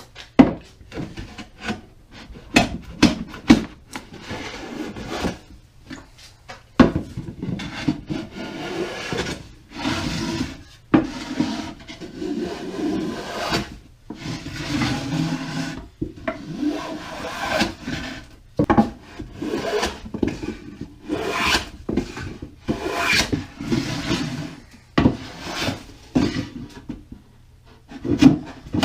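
Hand jack plane taking repeated shaving strokes along the bottom edge of a wooden beehive box, each stroke a scraping rasp of about a second, with a few sharp knocks between strokes. The plane is taking down high spots so the box will sit flat.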